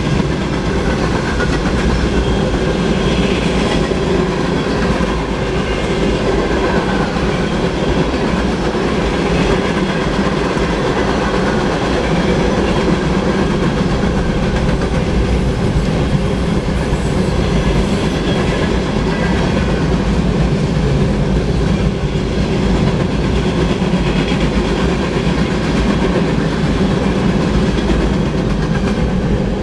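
Freight train cars, including covered hoppers, gondolas, tank cars and centerbeam flatcars, rolling past: a steady, continuous noise of steel wheels on rail.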